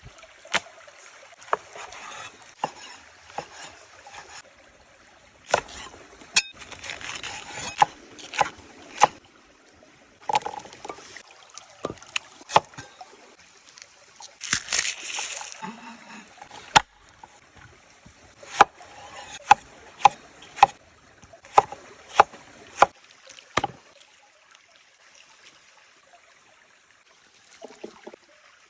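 Outdoor food-preparation sounds: sharp knocks and clicks, with a run of evenly spaced knocks about twice a second for several seconds past the middle, and short stretches of water splashing and sloshing.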